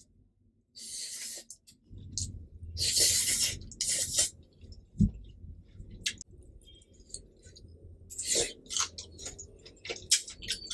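Close-miked eating of spicy carbonara instant noodles with cheese: wet chewing with scattered mouth clicks, several short hissing bursts and a low thud about five seconds in.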